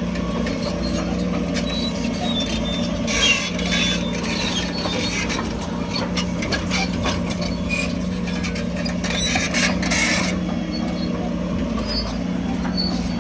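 Diesel engine of heavy earthmoving machinery running steadily under load, with bursts of clattering and rattling about three seconds in and again near ten seconds.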